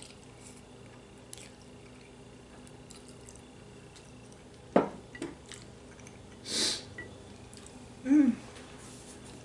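Eating sounds of a spicy noodle stew: a few short, wet slurps and mouth noises, spread over the second half, ending in a brief hum-like sound.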